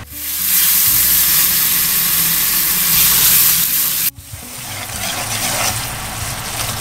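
Food frying in hot oil: a loud, steady sizzle that cuts off abruptly about four seconds in, followed by a quieter crackling sizzle. Faint background music runs underneath.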